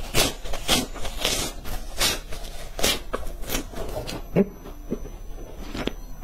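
Close-miked chewing of crumb-coated sticks, crisp crunches about twice a second for the first few seconds, then softer chewing toward the end.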